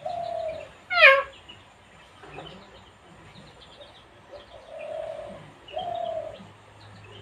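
Pet parrot calling: a loud, sharply falling squawk about a second in, among several short flat-pitched calls and faint chirps.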